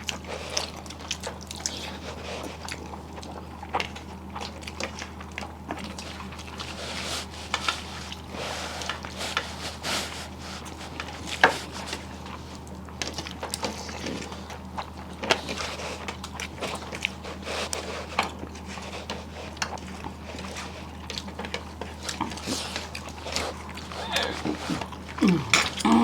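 Close-up eating sounds: chewing and mouth noises with many scattered small clicks and taps, over a low steady hum.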